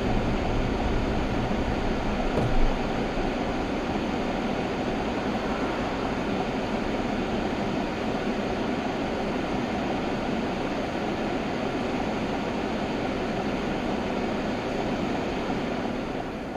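Steady road and engine noise of a car driving, heard from inside the cabin through a dashcam's microphone.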